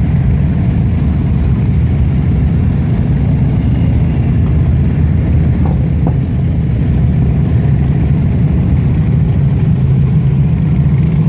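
Police motorcycle engine running steadily at low speed.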